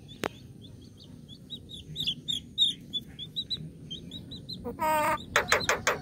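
Birds chirping: a quick run of short, high chirps, several a second, with a single click just after the start. Near the end a louder, lower-pitched bird call breaks in as a few short strokes.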